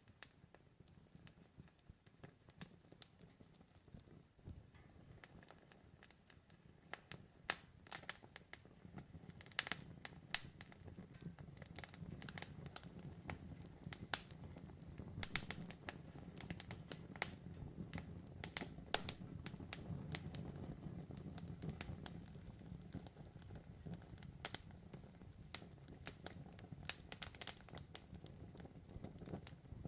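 Campfire crackling: burning wood gives off irregular sharp snaps and pops over a low rush of flame. The pops come thicker and louder after the first several seconds.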